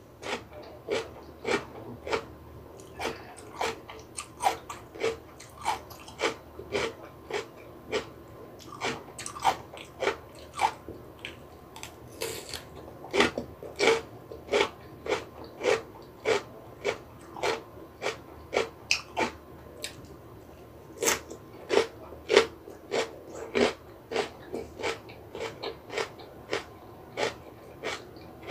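A person chewing crunchy food close to the microphone, with regular sharp crunches about two a second.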